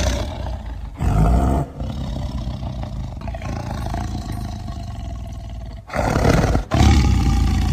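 A large animal's deep roaring calls, loud and rough, swelling about a second in and again near the end.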